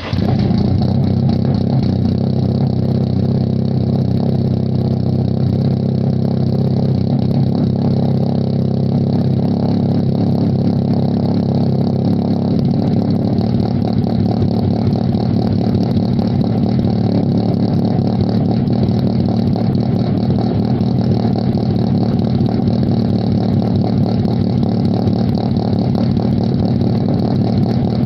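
Nissan March (K11) inline-four idling steadily through a nearly straight exhaust: a 4-2-1 header and 50 mm front and centre pipes with no silencer, giving a loud, raw idle.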